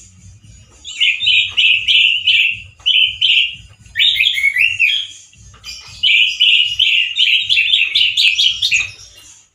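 Male orange-headed thrush singing loud, harsh song phrases in three bursts of rapid warbling notes, with short pauses between them.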